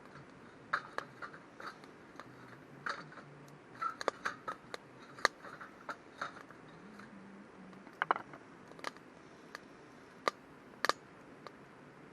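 Wood campfire crackling, with irregular sharp pops and snaps, a few of them loud.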